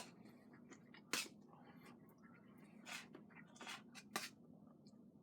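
Faint eating sounds: a few sharp clicks of utensils on a plate, with soft rustling between them.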